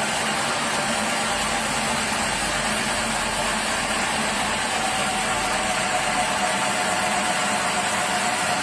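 Sawmill machinery running steadily, a dense mechanical drone with a thin whine coming in about halfway.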